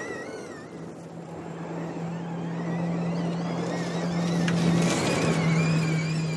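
Audi RS Q e-tron Dakar rally car driving hard off-road. Its electrified drivetrain gives a steady low drone under a high whine that wavers and climbs. The sound grows louder toward a peak about five seconds in, with a single knock just before.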